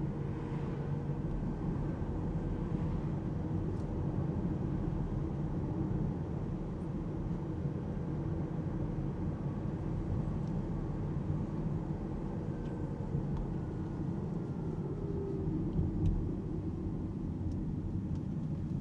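Alpine A390 GT all-electric car driving, heard as a steady low road and tyre rumble, with a faint whine that glides slightly up and down in pitch.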